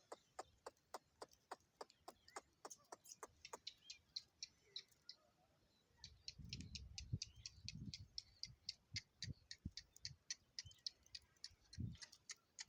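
A faint, rapid, even series of sharp clicks, about four a second, with a low rumbling thud a little past the middle and another near the end.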